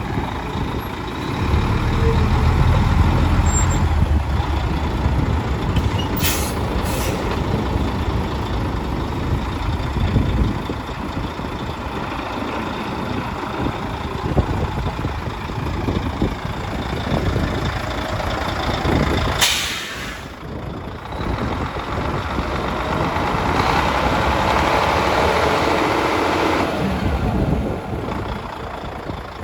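Volvo VNM truck tractor's diesel engine running, with a heavier low rumble through the first ten seconds. Sharp air hisses from the air brake system come at about six and seven seconds in and again near twenty seconds.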